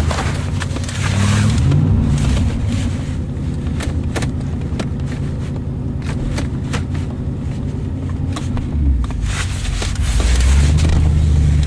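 Chevrolet car engine running after a cold start, revved up about a second in and again, louder, near the end, with scattered sharp ticks.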